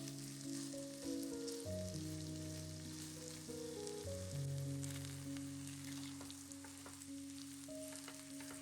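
Food frying in a pan: a steady sizzle with small crackles, under background music of soft held notes.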